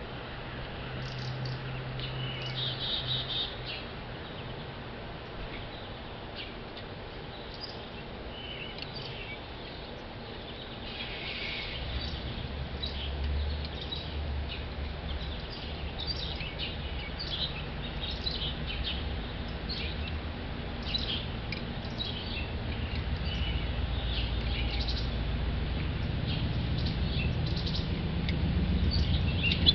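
Small songbirds chirping with many short, high calls, over a low rumble that swells through the second half.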